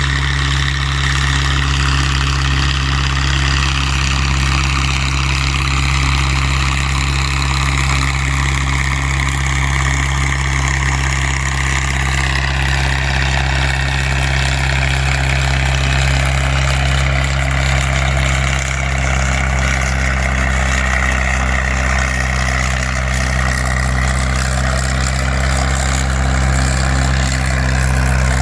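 Farm tractor engine running loud and steady at a constant speed, typical of a tractor under load pulling a weight-transfer sled.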